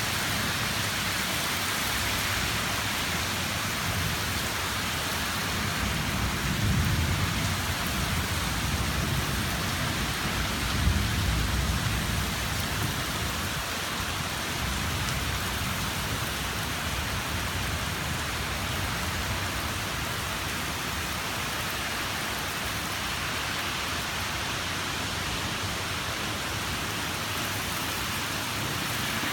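Heavy rain falling steadily. Low thunder rumbles swell up twice in the first half.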